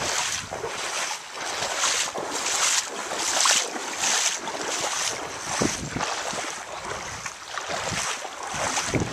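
Water splashing and sloshing in regular pulses, about three every two seconds, with wind noise on the microphone.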